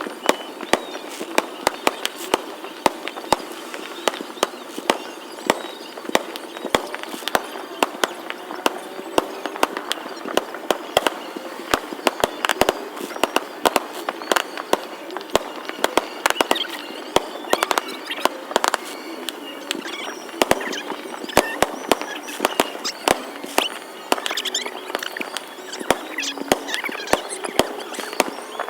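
Fireworks going off: many sharp bangs and pops at irregular intervals, sometimes several in quick succession.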